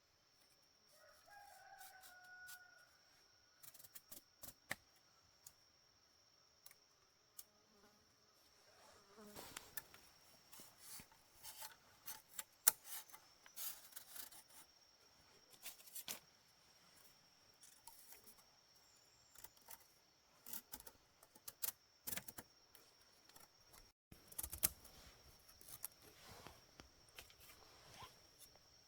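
Faint jungle ambience: a steady high insect drone with a short chicken call about a second in. From about nine seconds on there are many scattered clicks and rustles of handling.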